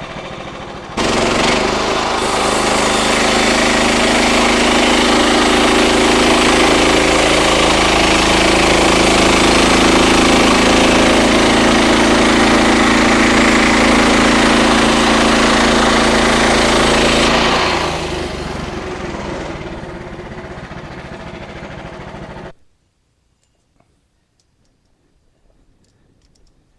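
Frontier OS31 portable bandsaw mill running: the blade cuts through a red oak log from about a second in until about 17 seconds, with the engine working under load. The mill then runs on unloaded and its engine shuts off suddenly about 22 seconds in.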